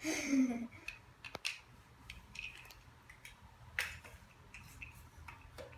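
Small plastic Sylvanian Families miniature toy pieces being picked up and set down: scattered light clicks and taps, the clearest about a second and a half in and near four seconds, after a short sliding sound at the very start.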